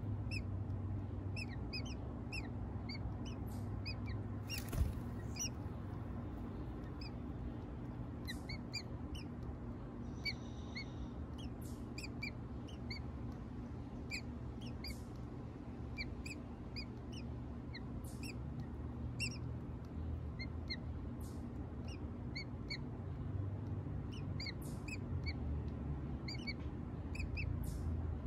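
Birds peeping: many short, high chirps, several a second and irregular, over a low steady hum, with a single sharp knock about five seconds in.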